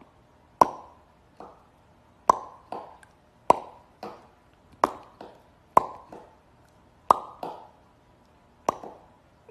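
A series of sharp plopping taps, each with a short ringing tone, coming about every second and a half, most followed by a softer second tap.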